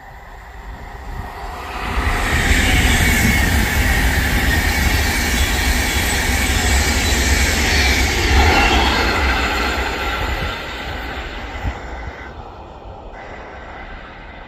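Avanti West Coast express passenger train passing at speed: a rush of wheel and air noise that builds over the first two seconds, stays loud for about eight seconds, then fades away.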